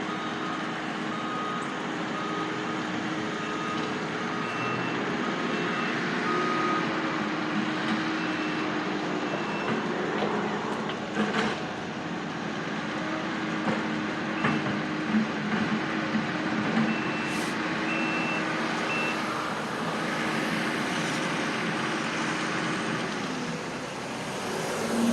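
Reversing alarms on heavy work vehicles beeping steadily over a running engine, a lower-pitched alarm for the first several seconds and a higher-pitched one in short runs later, with a few knocks about halfway through.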